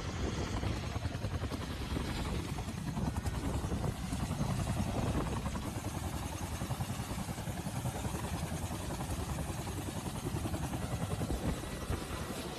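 Self-Defense Forces helicopter running, its rotor making a rapid, steady beating over a low engine noise.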